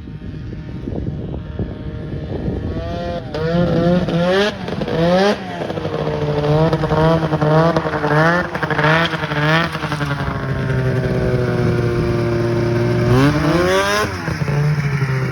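Arctic Cat Cougar 550 snowmobile's two-stroke engine, fitted with a new muffler, blipped up and down in a string of quick revs. It then holds a steady speed for a few seconds and gives one more rev before settling back.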